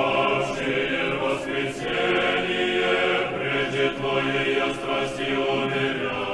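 Church choir chanting, several voices holding long sung notes that shift pitch every second or so.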